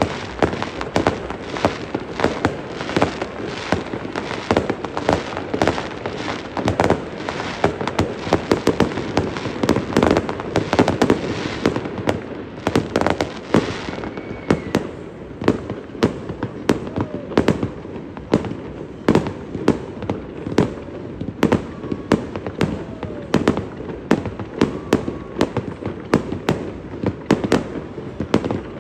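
Aerial fireworks display: a rapid, continuous barrage of shell bursts and crackling reports, densest in the first half and thinning to more spaced-out bangs after about halfway.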